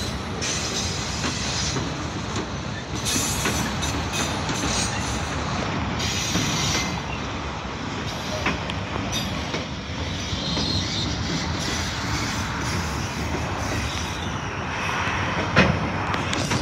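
Freight train cars, mostly multilevel autoracks, rolling past on steel rails: a steady rumble and clatter of wheels on track. A short high wheel squeal comes about ten seconds in, and a single sharp metallic clank near the end.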